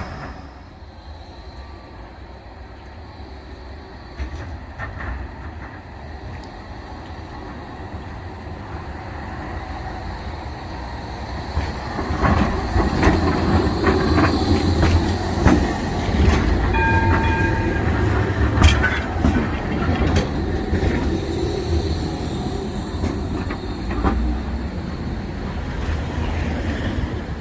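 A tram running past on street track: a low rumble with rail clicks that builds from about halfway and stays loud until near the end, with a brief high tone about two-thirds through.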